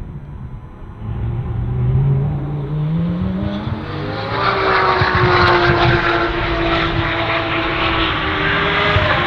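Lamborghini Huracán Super Trofeo EVO2 race car's V10 engine under acceleration: its note climbs in pitch from about a second in, then becomes much louder and fuller about halfway through and holds a high, fairly steady note.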